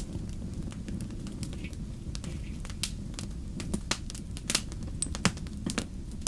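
Wood fire crackling in a fireplace: a steady low rumble of flames under irregular sharp crackles, with a few louder pops in the second half.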